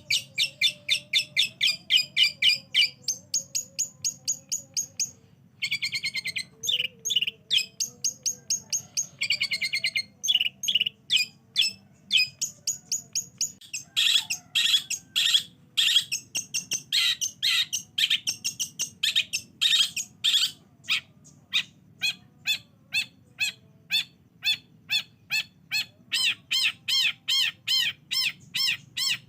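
Long-tailed shrike (cendet) singing: a fast, unbroken chatter of sharp, high chirping notes, several a second, in changing phrases with only short breaks. It is a provoking recording (pancingan), played to set caged shrikes singing.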